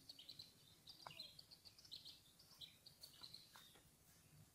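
Faint bird chirping: many short, high chirps in quick succession, with a few soft clicks among them.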